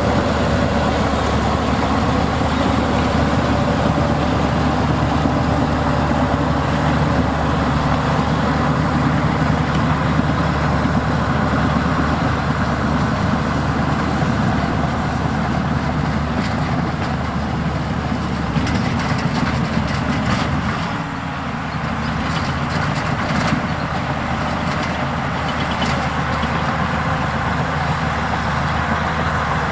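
Heavy diesel earthmoving machinery running steadily under load, with a brief drop in level about two-thirds of the way through and scattered knocks in the second half.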